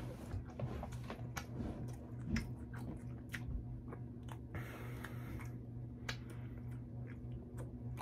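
Close-up mouth sounds of a person chewing a Moon Over My Hammy, a ham, egg and cheese sandwich on grilled sourdough: irregular chewing clicks, with a short breathy hiss about halfway through. A steady low hum runs underneath.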